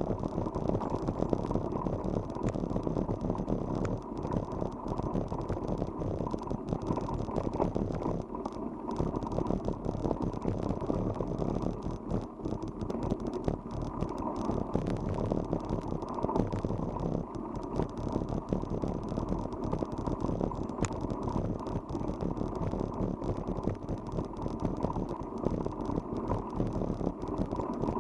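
Bicycle riding, heard as a steady rolling noise with constant rattling and many small ticks and knocks.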